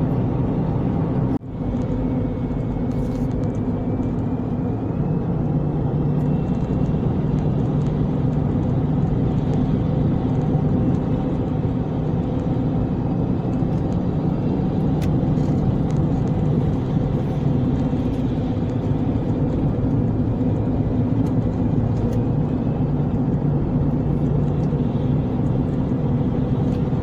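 Car driving along a road, its engine and tyres making a steady low drone, with a brief drop-out about a second and a half in.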